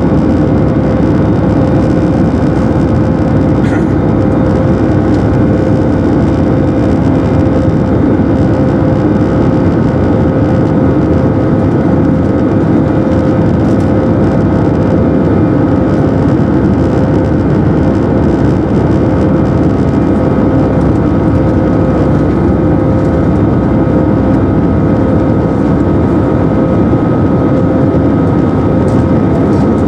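Airbus A319 jet engines at high thrust heard inside the passenger cabin: a steady, loud drone with a few held tones over a deep rumble of noise.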